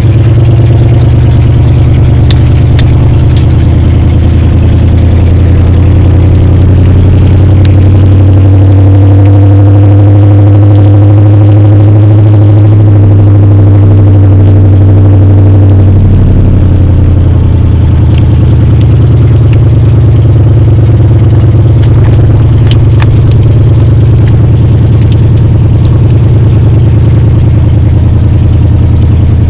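Straight-piped 1996 Dodge Ram exhaust running loud and continuous. It climbs gently in pitch through the middle, then drops back suddenly about halfway through.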